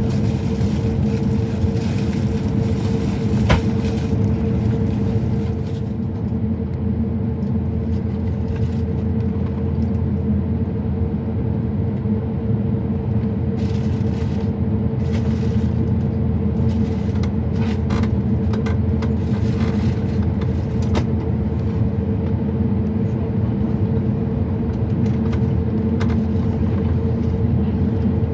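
Steady low rumble and constant hum inside the cabin of an Airbus A350-1000 as it taxis, with a few brief faint clicks.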